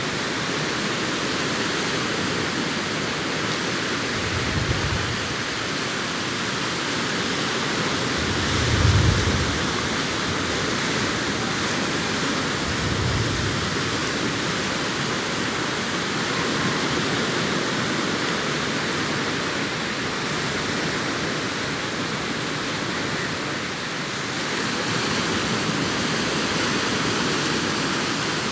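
Sea surf breaking on a sandy beach: a steady, continuous rush of waves, with short low rumbles about four, nine and thirteen seconds in, the one at nine seconds the loudest.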